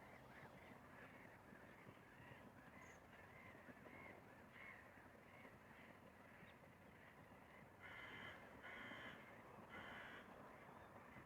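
Distant crow cawing three harsh times, about eight to ten seconds in, over a faint steady chatter of small high bird calls.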